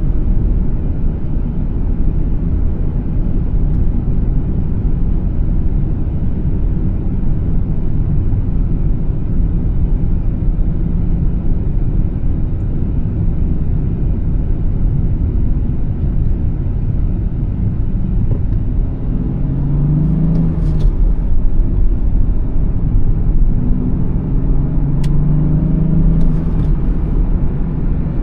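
A 2014 BMW 435i's turbocharged 3.0-litre inline-six and a steady low road rumble while the car is driven. The engine note rises twice under acceleration, about two-thirds of the way through and again near the end.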